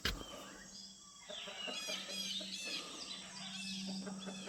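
Chickens clucking, with birds chirping in quick high runs through most of it, after a single thump right at the start.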